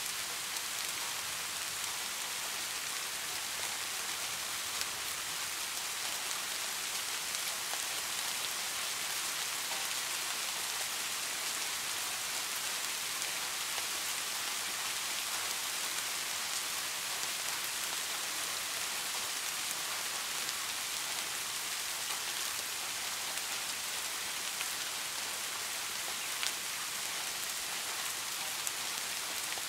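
Steady rain falling: an even, unbroken hiss of many drops, with a few single drops ticking out more sharply now and then.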